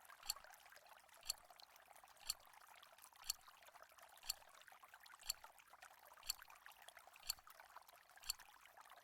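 Quiz countdown timer ticking once a second, nine sharp ticks, over a faint steady hiss.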